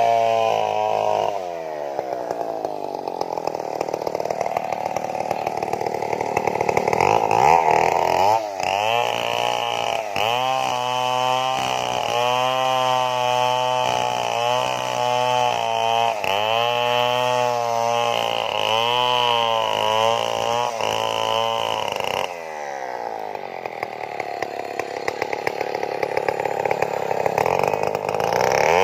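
Stihl two-stroke chainsaw running hard while felling a tree, its pitch dipping and recovering over and over as the chain bites. About two-thirds through it eases to a lower, quieter note for several seconds, then picks up again near the end.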